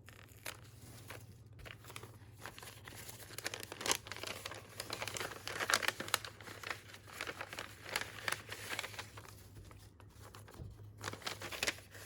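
Small sealed craft bag being torn open and its packet of vellum stickers pulled out: irregular crinkling and tearing of paper packaging, busiest midway, with a short pause near the end.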